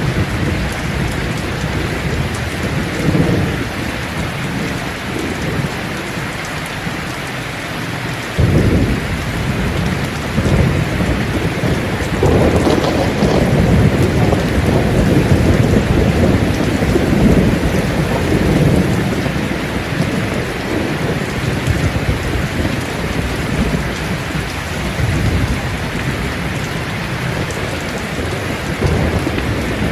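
Steady rain falling on leaves, an even hiss, with low thunder rumbling through it. One roll starts suddenly about a third of the way in and swells to its loudest through the middle.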